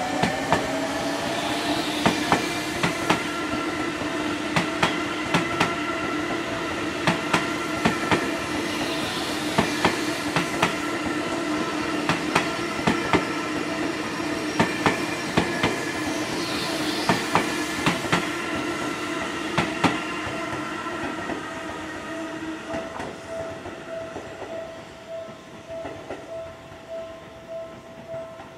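Seibu 20000 series electric train pulling away. Its traction motor whine rises in pitch at first and then holds steady, over regular paired clicks of wheels crossing rail joints. The sound fades over the last several seconds as the train recedes.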